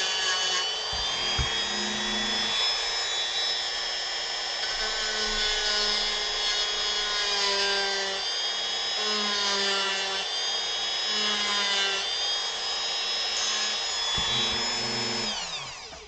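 Dremel rotary tool running at a steady high whine while its bit grinds into wood, the tone dipping now and then as it bites. It is switched off near the end and winds down.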